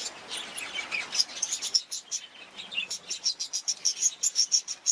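Budgerigars chirping and chattering: many short, high chirps several a second, coming faster and denser in the second half.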